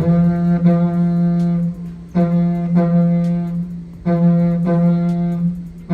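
Yidaki (didgeridoo) playing a welcome song: a steady drone with a brief accent partway through each phrase, the phrases restarting about every two seconds.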